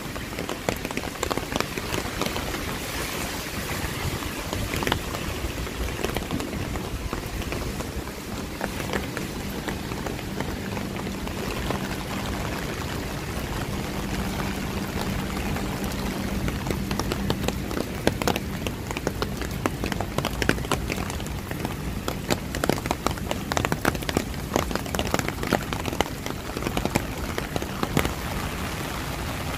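Steady rain falling, with sharp close drops tapping throughout and coming thicker in the second half. A faint low hum runs underneath for several seconds in the middle.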